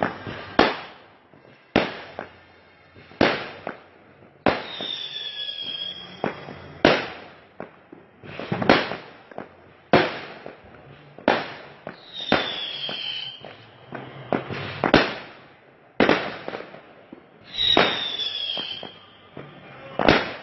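Fireworks going off in a steady series of sharp bangs, about one every one to two seconds, each dying away with a trailing echo. A falling whistle sounds three times among the bangs.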